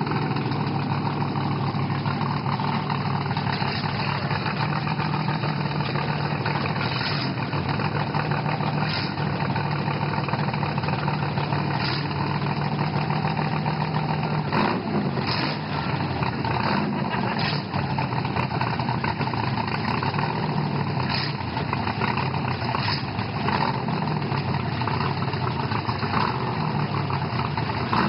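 Car engine idling steadily. Its steady low hum stops about halfway through and the running becomes less even.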